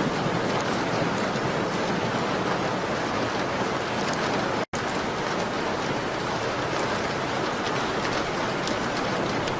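Steady rain on a window glass, an even hiss with faint drop ticks. The sound cuts out completely for an instant about halfway through, as at a loop splice.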